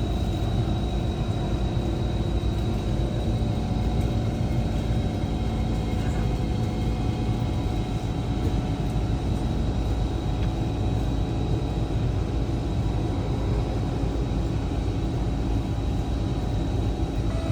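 SMRT C151 metro train standing at the platform: a steady hum and rumble from its onboard equipment, with a thin, high, steady whine above it.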